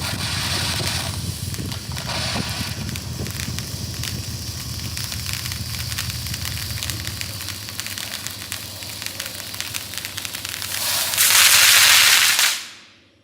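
Consumer ground firework ("Tank Engine") burning: a steady hiss of spraying sparks with dense crackling. About eleven seconds in, a louder, harsher hiss takes over for about a second and a half, then dies away quickly as the item burns out.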